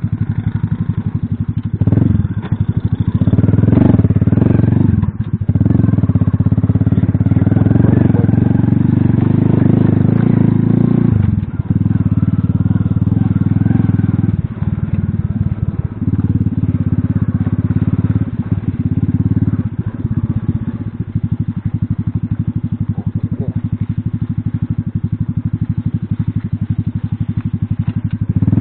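Small Alpha moped engine running under throttle while riding. The throttle is closed briefly several times and then opened again, so the engine sound dips and picks back up.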